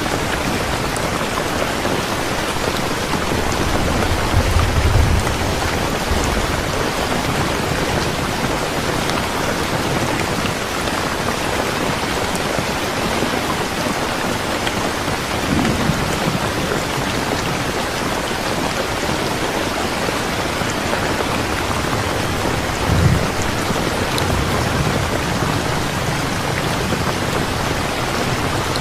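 Steady heavy rain falling, an even hiss of many drops. There is a low rumble of thunder about four to six seconds in and a short one about twenty-three seconds in.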